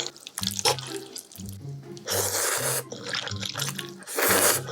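Water running briefly twice, each burst about half a second long, over background music with a repeating bass line.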